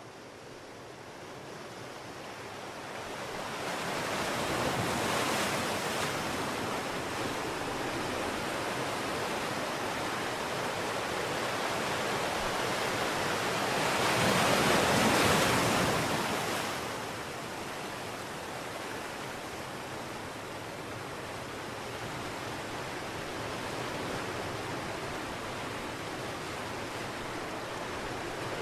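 Sea waves surging and washing in, swelling and easing off, with one louder wave breaking about halfway through.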